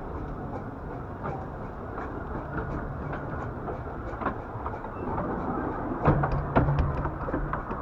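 15-inch gauge miniature railway train running, a steady rumble with irregular clicks and knocks of the wheels over the rail joints. A low steady hum grows stronger about six seconds in.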